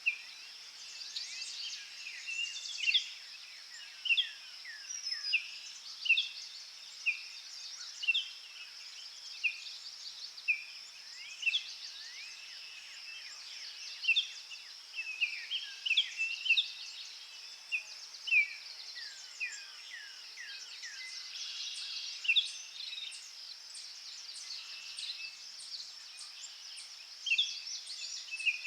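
Forest birds chirping: short, falling notes repeated about once a second, over a steady high insect buzz.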